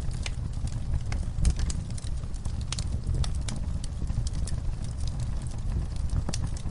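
Logs and coals burning in a camp fire pit, crackling and popping: many sharp, irregular pops over a low steady rumble.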